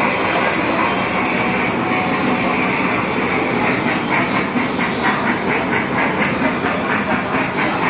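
Thomas the Tank Engine–themed kiddie ride train running on its track, with a steady rumble. About halfway in, a regular clacking joins at roughly three strokes a second.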